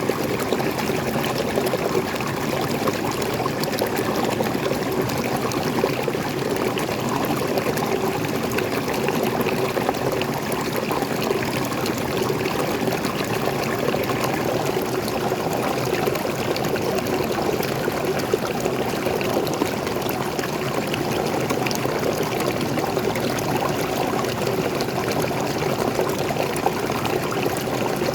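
Waterfall: water pouring and splashing in a steady, even rush that does not change or break.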